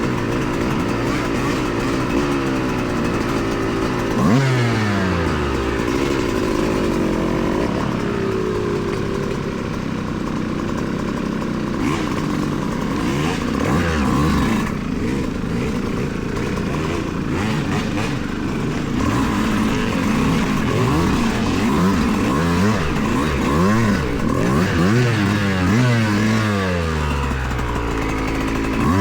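Yamaha YZ125X two-stroke dirt bike engine being ridden, its pitch rising and falling over and over as the throttle is opened and closed and the gears change. There is a sharp rev about four seconds in.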